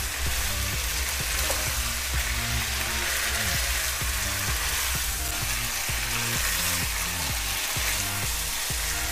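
Masala-coated chicken pieces sizzling in oil in a kadhai, stirred and turned with a wooden spatula, a steady frying hiss. Background music plays underneath.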